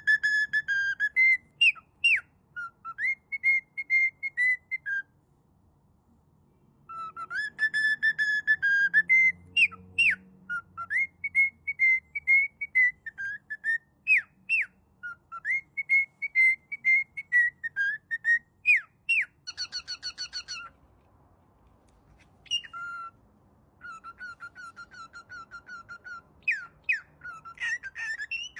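A pet songbird singing: clear whistled notes and quick up-and-down chirps in phrases, with a fast rolling trill partway through and short pauses between phrases.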